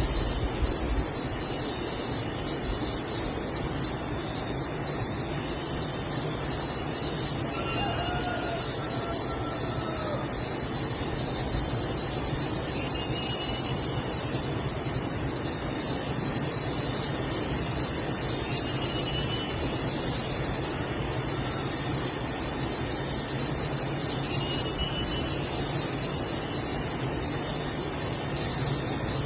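Insects calling: a steady high-pitched drone throughout, with a second, pulsing trill that comes and goes in bouts of a few seconds. Faint short chirps are heard every few seconds.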